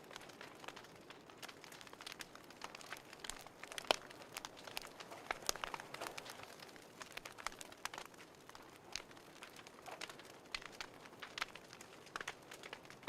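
Wood fire crackling in a fireplace: irregular sharp pops and snaps over a faint steady hiss, one louder pop about four seconds in.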